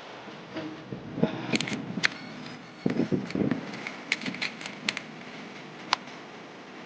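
Handling noise: a scatter of sharp, short clicks and a few dull knocks, as of small hard parts being picked up, set down and fitted together, over a steady hiss.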